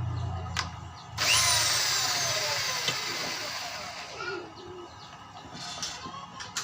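Washing-machine motor driving a blower fan: about a second in it bursts into a loud rush of air with a high whine, then winds down, the whine falling steadily in pitch and fading over the next few seconds.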